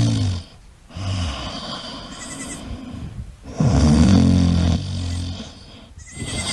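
A sleeping goat snoring: a series of long, low-pitched breaths, each a second or two long, with short pauses between them.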